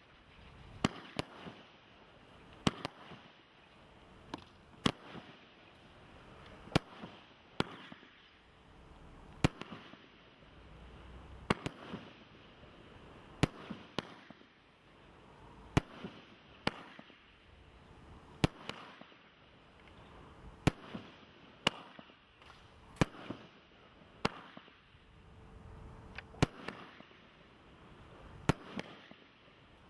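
98-shot single-ignition firework barrage firing shot after shot. Each shot is a rising whoosh of the launch ending in a sharp bang, about twenty in all, spaced roughly a second or two apart.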